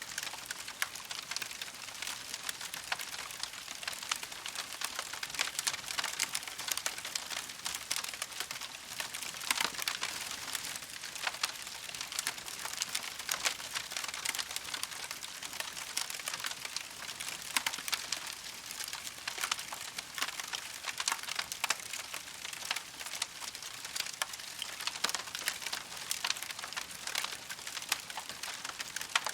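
Wood campfire crackling steadily, with a dense stream of small pops and snaps and no pauses.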